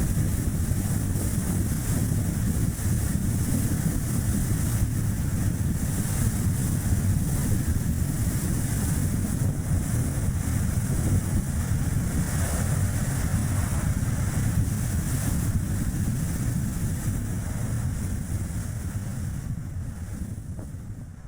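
Strong wind rushing over the microphone, mixed with the tyre and road noise of a Chevrolet Spark light car on the move, as a steady low rumble that fades out near the end.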